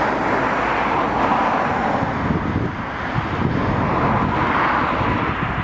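Steady hum of passing road traffic outdoors, with some rumble of wind on the microphone.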